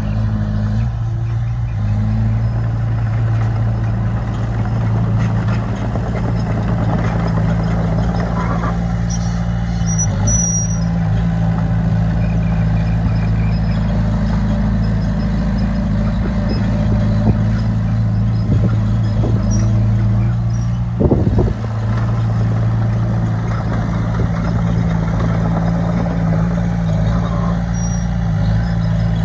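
Diesel engine of heavy earthmoving equipment running steadily with a low hum. A short burst of knocks comes about two-thirds of the way through.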